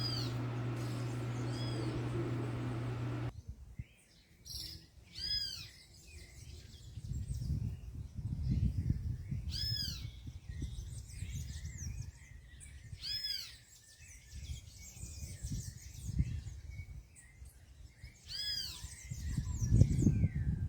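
A bird calls over and over, each call a single clear note that rises and falls, about six times at intervals of three to four seconds. A steady hum in the first three seconds stops abruptly, and a low rumble runs beneath the calls.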